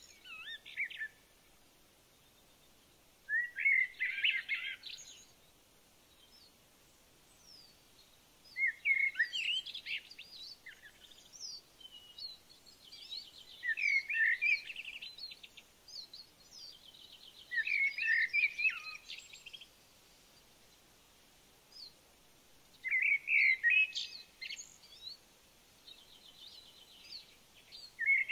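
A songbird singing short, warbling phrases about every four to five seconds, with softer chirps in between.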